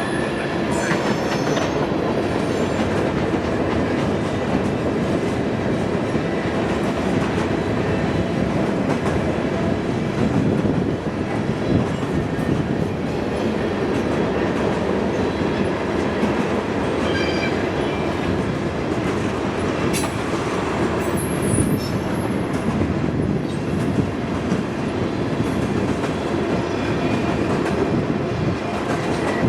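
A long freight train rolling steadily past, its cars' wheels clattering over the rail, with a brief high wheel squeal about two-thirds of the way through.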